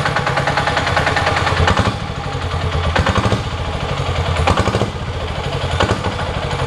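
Minibike's 12 hp air-cooled single-cylinder diesel engine running, exhausting through an empty muffler, with a fast, rough clatter of firing pulses. The revs drop briefly about two seconds in and again about five seconds in.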